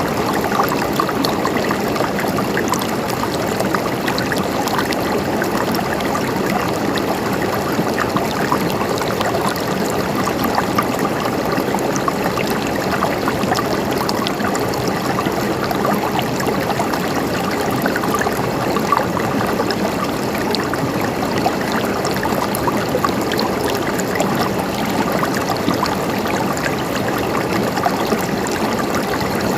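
A river flowing steadily over rocks: a continuous babbling rush of water, dotted with many small splashes and droplets.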